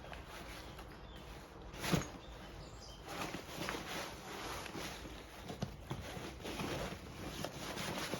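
Rain cover fabric rustling and scuffing as a backpack is worked into it bottom first, with a single sharp knock about two seconds in.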